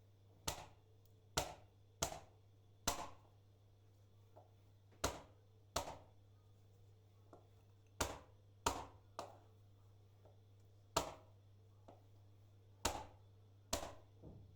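A series of sharp knocks or taps, each short with a quick decay, coming irregularly about once a second over a faint steady hum.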